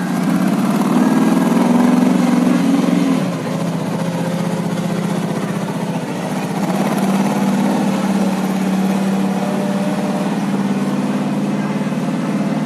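Monster truck engine revving hard for about three seconds, then dropping back and running steadily.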